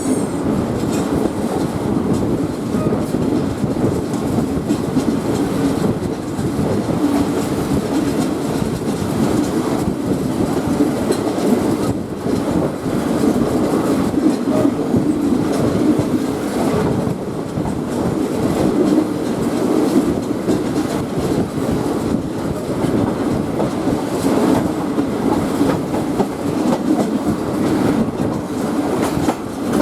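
State Railway of Thailand passenger train 282 running along the track: steady rumble of the coaches with the wheels clattering over rail joints.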